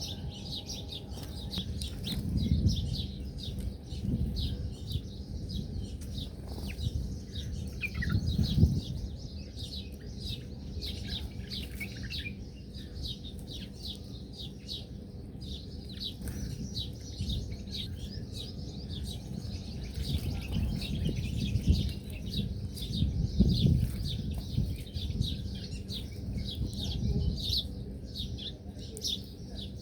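A flock of small birds chirping and twittering without a break, with several low fluttering thumps of wingbeats now and then.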